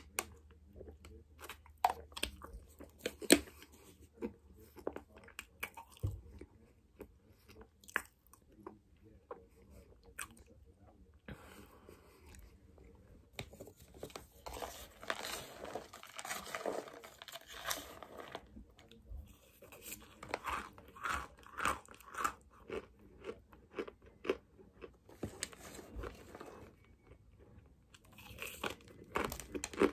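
Chewing of crunchy clumps of cornstarch close to the microphone: irregular crunches and mouth clicks, growing dense and continuous about halfway through and again a little later.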